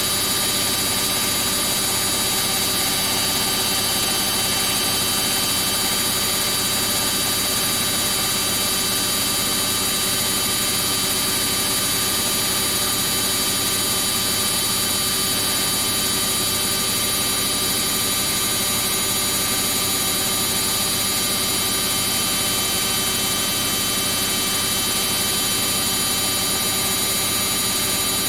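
Samsung EcoBubble front-load washing machine in its high-speed spin: a steady whine and hum that holds even throughout.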